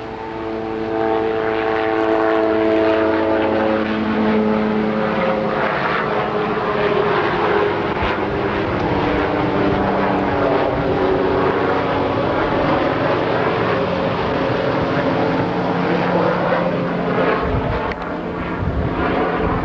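An aircraft engine passing overhead. It grows loud about a second in, and its drone drops slowly in pitch as it goes by, then holds steady.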